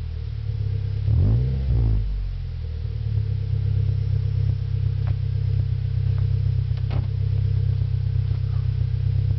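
Mazda3 engine on a cold start, blipped twice in quick succession about a second in, then settling to a steady idle.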